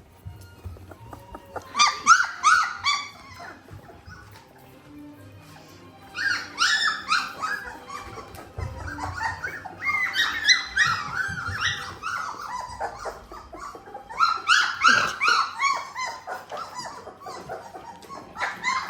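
Three-week-old Labrador puppies whining and yipping: short, high, rising-and-falling calls in several bursts with quieter gaps between.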